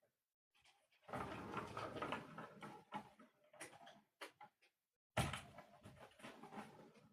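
Rustling and clattering with a few sharp knocks, and a sudden louder clatter about five seconds in.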